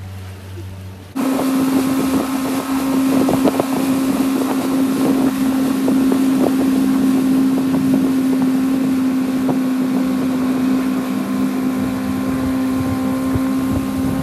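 Motorboat engine running steadily at one pitch while under way, with wind noise on the microphone. It starts abruptly about a second in.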